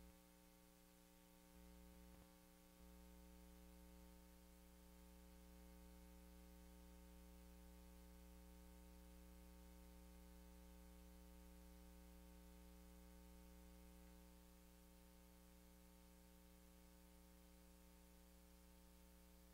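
Near silence: a faint steady electrical hum with hiss, the low buzz of mains-frequency tones.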